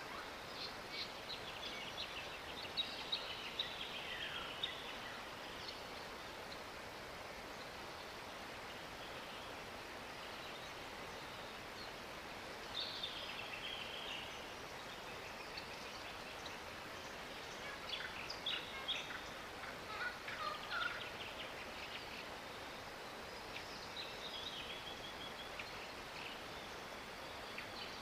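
Birds calling in short bouts of chatter and brief falling whistled notes, over a steady outdoor hiss.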